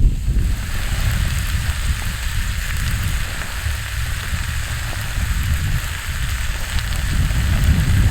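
Wood campfire crackling and hissing steadily, with faint scattered pops, over a low rumble of wind on the microphone.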